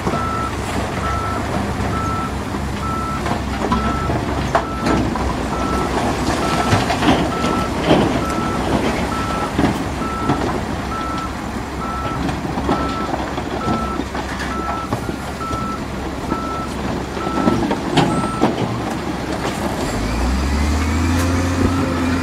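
A heavy construction vehicle's reversing alarm beeping at a steady rate over the low rumble of a diesel engine, with scattered knocks and clanks. The beeping stops about 18 s in, and the engine gets louder near the end.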